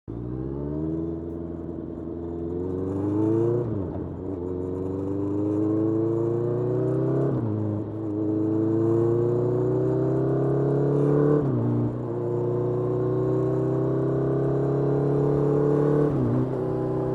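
A 2022 Honda CBR650R's inline-four engine through a Mivv GP Pro full-system exhaust, accelerating hard and shifting up four times. Each gear the pitch climbs slowly, then drops sharply at the shift, about every four seconds.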